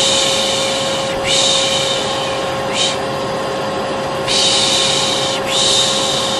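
Vacuum cleaner running steadily with a constant humming tone, overlaid by a person's repeated 'shh' shushing, each hiss lasting about a second with short gaps between: the 'piş piş' shushing used to lull a baby.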